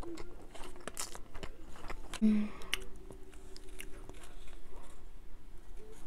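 Close-miked chewing of a mouthful of Vienna sausage, with many wet mouth clicks and smacks.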